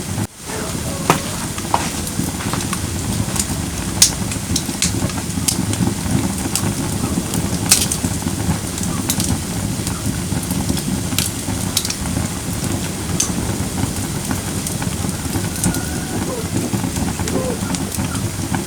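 Firewood burning in a fire pit: a steady low rush of flames with scattered sharp crackles and pops, a few louder snaps standing out.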